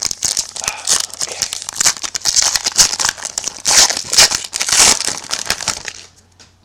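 A foil trading-card pack wrapper being torn open and crinkled by hand: dense, loud crackling that dies away about six seconds in.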